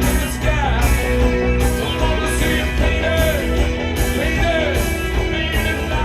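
Live rock band playing loud: electric guitars, bass and drums, with cymbals splashing on a steady beat about every 0.8 seconds and a singing voice over the top.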